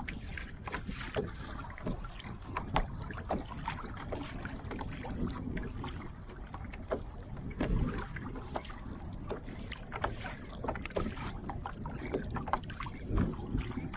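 Water splashing and dripping around a kayak in many small irregular splashes, over a steady low rumble of wind on the microphone.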